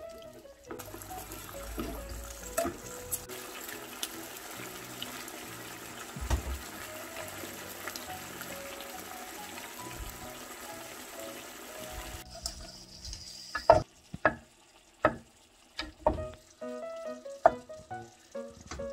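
Red minced-pork and onion sauce bubbling and sizzling at a boil in a nonstick frying pan, stirred with a wooden spatula, a steady hiss. The hiss stops about twelve seconds in, followed by a run of sharp knocks.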